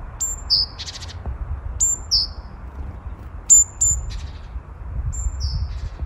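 Small birds calling: a high note that drops sharply in pitch, often followed by a short lower slurred note, repeated several times, with a few short raspy bursts in between, over a steady low rumble.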